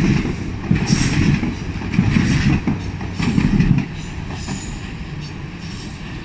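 TER regional multiple unit rolling away over pointwork, its wheels clattering in heavy groups about a second apart as the bogies cross rail joints and switches. The noise drops off sharply about four seconds in as the last vehicle passes, leaving a quieter steady rumble.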